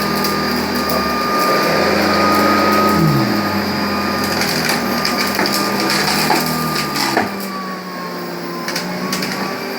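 Hoover Convertible upright vacuum cleaner running, a steady motor whine and hum, with sharp clicks and rattles as pieces of chicken bone are sucked up from the carpet, most of them in the second half.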